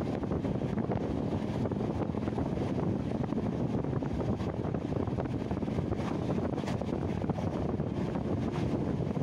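Moving passenger train heard from an open window: a steady rumble of the train running on the track, mixed with wind rushing past the microphone.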